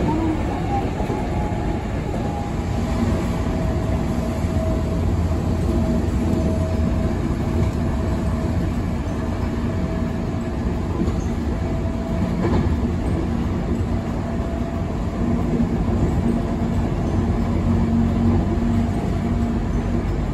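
Electric passenger train running at speed, heard from inside the car: a steady rumble of wheels on the rails with a faint steady tone over it.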